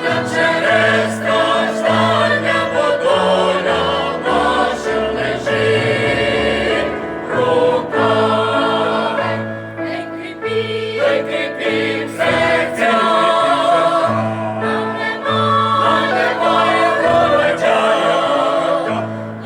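Mixed choir of men's and women's voices singing a song in several parts, with sustained held notes.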